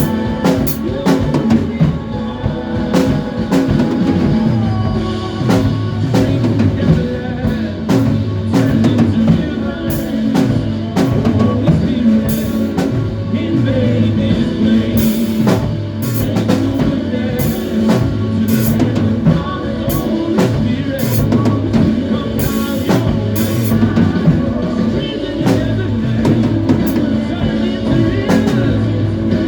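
Live gospel band rehearsing: a drum kit keeps a steady beat with frequent cymbal hits over bass and other instruments.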